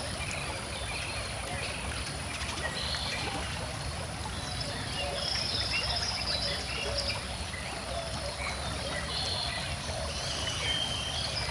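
A calm stream flowing steadily, with several birds chirping and trilling over it.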